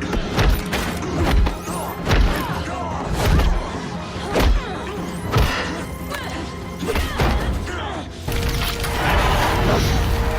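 Action-scene soundtrack: dramatic music with a series of heavy hits and crashes, roughly one a second. It turns steadier and more sustained near the end.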